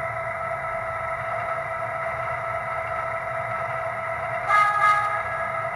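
MTH model NW2 diesel switcher's onboard sound system playing a steady diesel-engine running sound through its small speaker, with a held tone over a low hum. A brief louder sound comes about four and a half seconds in.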